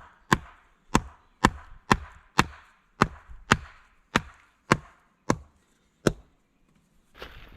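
Wood being chopped with a blade, sharp blows about two a second, stopping about six seconds in. A fainter shuffling follows near the end.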